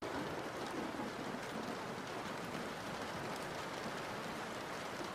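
Steady rain sound: an even hiss with faint scattered drop-like ticks.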